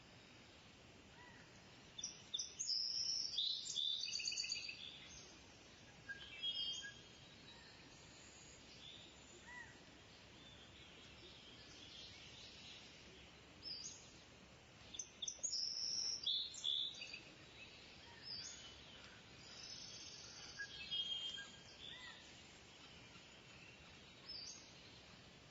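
Kingfisher calling in bursts of rapid, high-pitched notes, loudest about two seconds in and again about fifteen seconds in, with shorter calls between over faint background chirping.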